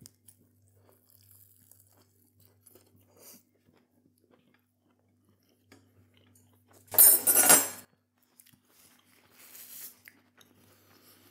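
A person biting into a plant-based burger and chewing it with the mouth closed, with faint soft chewing clicks. About seven seconds in there is a loud, brief rustle of a paper napkin, then a softer rustle near the end.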